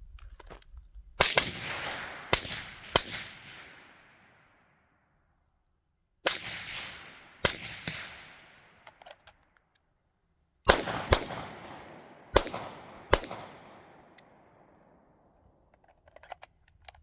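Nine gunshots fired in three strings, three, then two, then four, each shot followed by a long echo that fades over a second or two.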